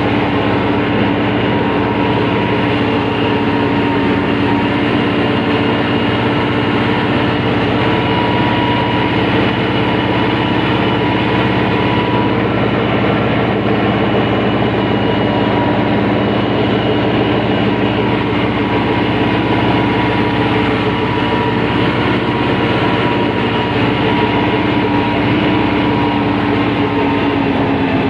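Tractor engine running steadily at a constant speed, its pitch easing down slightly near the end.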